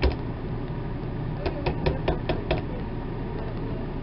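A quick run of light clicks and taps from the hair dye tube and plastic applicator bottle being handled as the last of the dye is squeezed out, over a steady low hum.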